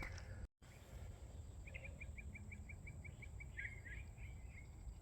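A small songbird singing: a quick run of about a dozen evenly spaced chirps, roughly six a second, then a few rougher notes, over a faint low background rumble.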